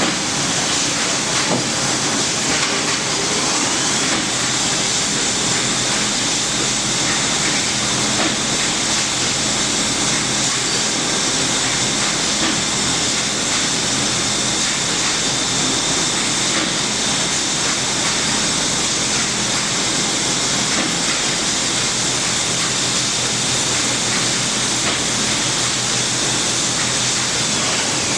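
Haas SL-20 CNC lathe running, with a steady, loud rushing hiss. A faint high whine comes in about four seconds in and stops shortly before the end.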